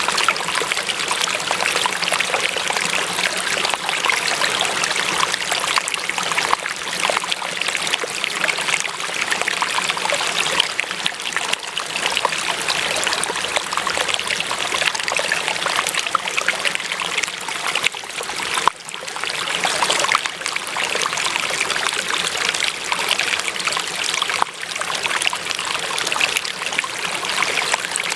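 Running water splashing and trickling steadily, like a small stream, with a brief drop in level about two-thirds of the way through.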